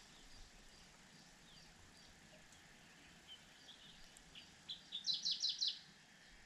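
A small bird chirping: faint scattered chirps, then a quick run of about eight sharp, high chirps about five seconds in, over a steady outdoor hiss.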